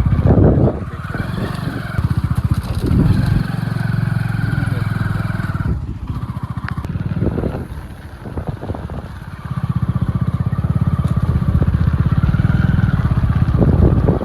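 Motorcycle engine running while riding. It dips for a few seconds around the middle, then picks up again.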